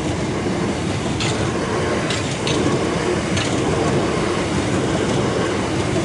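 Train passing close by with a steady rumble of wheels on rail, and sharp clicks as the wheels run over rail joints every second or so.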